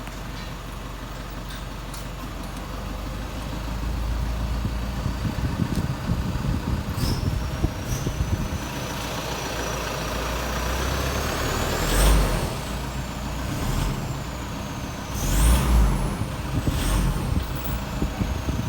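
Toyota Prado's 1KD-FTV 3.0-litre four-cylinder turbo diesel running and being revved several times, its turbocharger whistling. The high whine comes in after a few seconds, climbs with each rev and sinks back as the revs drop, with the loudest revs in the second half.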